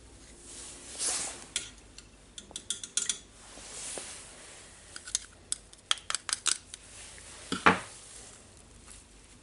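Small metal parts of a rotary hammer drill clinking and tapping against each other and a hard work surface. The clicks come in irregular clusters, with one louder knock near the end.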